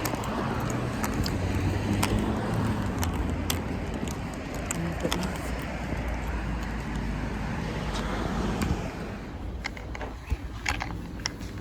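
Steady outdoor street noise, a low rumble with hiss and scattered light clicks, easing off about nine seconds in, after which a few sharper clicks stand out.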